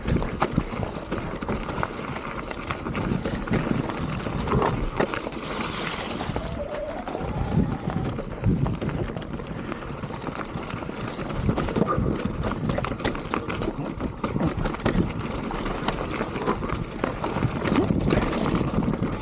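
Mountain bike riding over a rough, wet dirt trail: steady rattling and knocking of the bike and chain over roots and rocks, with tyre noise on the ground.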